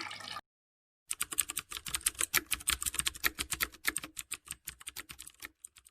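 Rapid keyboard-typing clicks, about nine a second, starting after a moment of silence and thinning out shortly before the end.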